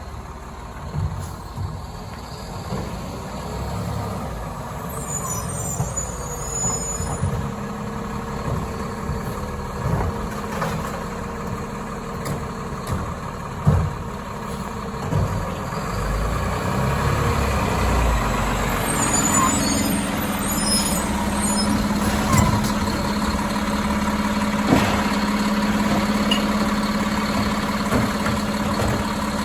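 Labrie Automizer automated side-loader garbage truck working: its diesel engine runs throughout, with occasional sharp clanks and two short bursts of high hissing or squealing. About two-thirds of the way through, a steady, higher hum sets in and holds.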